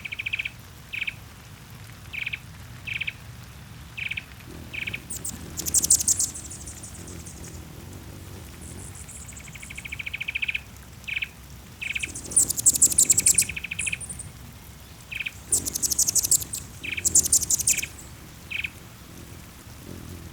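Background wild birdsong: short, clipped chirps repeated about once a second, broken by several high, fast trills each lasting about a second, the loudest near the middle and toward the end.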